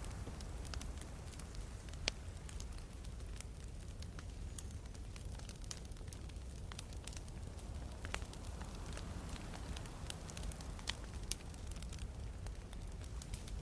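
Wood campfire crackling, with irregular sharp pops of burning logs, the loudest about two seconds in, over a steady low rumble of sea surf.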